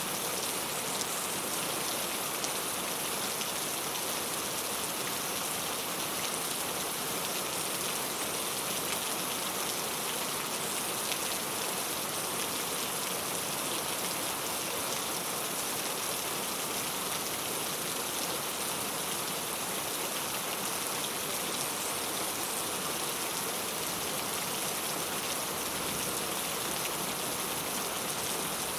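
Steady rain falling on a clay-tile roof: a dense, even patter of drops that does not change.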